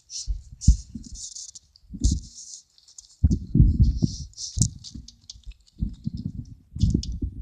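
Irregular rattles and clicks, with uneven rumbling, as a dirt bike's foot gear lever is worked to find neutral.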